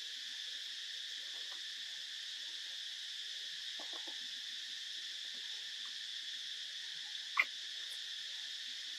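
Steady high-pitched drone of an insect chorus, with a single sharp click about seven and a half seconds in.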